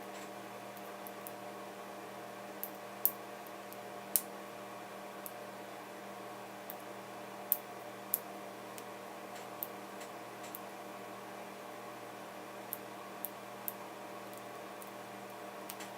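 Steady electrical hum with about a dozen short, sharp clicks and taps scattered through it, the loudest about three and four seconds in: small tools and parts being handled on an opened laptop.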